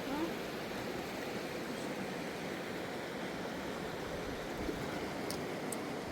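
A fast-flowing mountain river rushing, a steady, unbroken wash of water noise, with a few faint ticks near the end.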